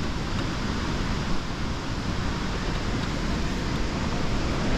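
Waterfall rushing with a steady roar of falling water and spray.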